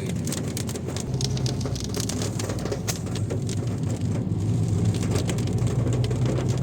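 Car running, heard from inside the cabin, with a steady low engine and road hum that deepens about a second in, and irregular sharp taps of rain hitting the roof and windscreen.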